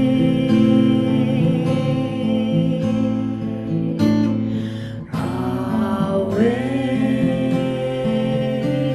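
Acoustic guitar strumming under long, held chanted notes. About five seconds in, the sound briefly dips, then a voice glides up into a new held note.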